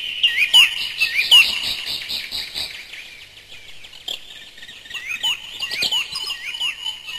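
Birds chirping: many short rising and falling notes, several a second, over a steady high trill, quieter in the middle and busier again near the end.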